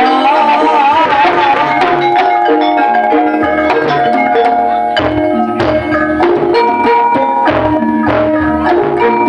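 Loud live gamelan music through a sound system: struck metallophone notes in quick succession over kendang drum beats, with a wavering melodic line in the first two seconds.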